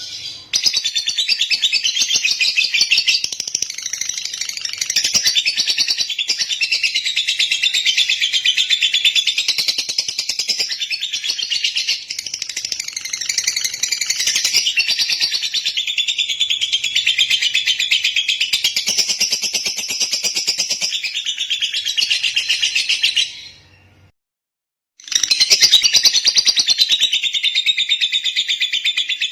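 Lovebird singing, a long unbroken run of rapid high chirps and twitters. It stops for about a second roughly 24 seconds in, then carries on.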